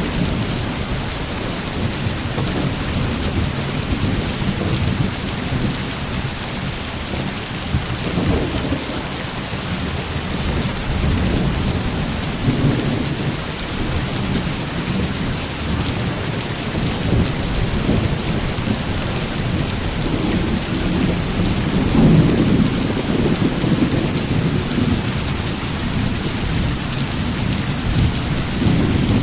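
Heavy rain falling steadily, with low rumbles of thunder that swell and fade, the strongest about three quarters of the way through.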